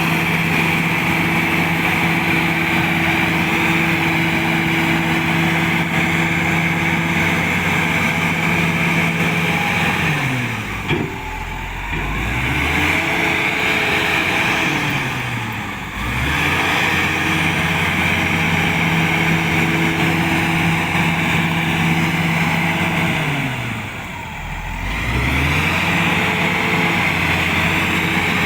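Komatsu D85SS-2 crawler bulldozer's diesel engine running hard at steady high revs, three times dropping in pitch and picking back up.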